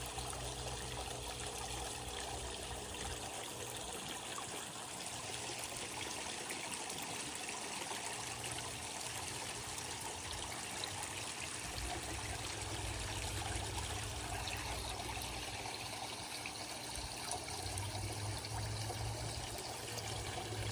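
Pump-fed water trickling and splashing steadily into a koi pond, with a low rumble that comes and goes underneath.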